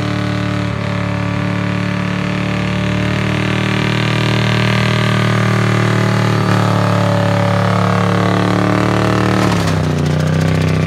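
2000 Lincoln LS's 3.9-litre V8 held at high, steady revs in a burnout, spinning the rear tyre. The revs fall away near the end.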